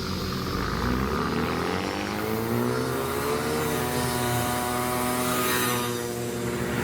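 Car engine accelerating: its note climbs steadily for a couple of seconds, then eases slightly and holds.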